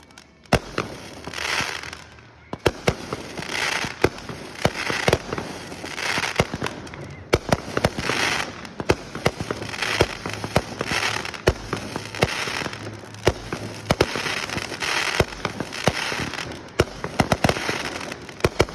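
Fireworks display going off: a rapid series of sharp bangs, some in quick clusters, with rushes of hiss roughly once a second in between.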